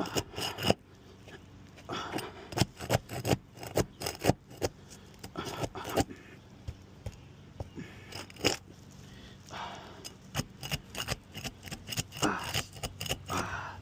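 Prying tool scraping and working under asphalt roof shingles to break their sealant strip, with irregular sharp scrapes, clicks and crackles. The seal is holding tight and the shingles are being damaged as they are pried up.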